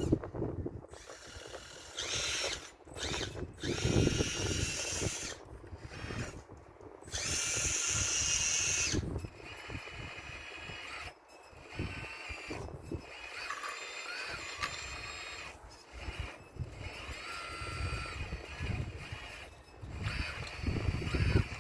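Motors of a radio-controlled Caterpillar model excavator whining in bursts as the arm and tracks work, the pitch rising and falling, with some low knocks.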